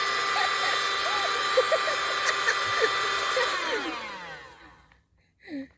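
A small electric motor running with a steady high whine, then switched off and winding down, its pitch falling until it fades out about five seconds in. A brief short sound follows just before the end.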